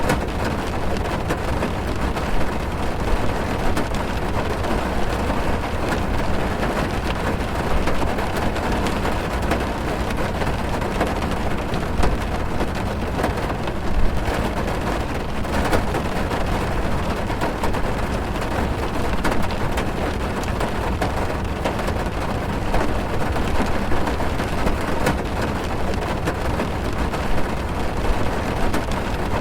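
Steady rain drumming on a car's roof and windows, heard from inside the cabin, with many small drop ticks and a few slightly louder hits.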